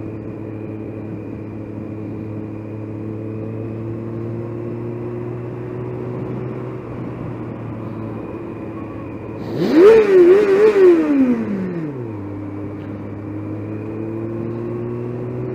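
Motorcycle engine running steadily, then about ten seconds in it revs up sharply, its pitch wavering at the top before falling back over about two seconds to the earlier steady note.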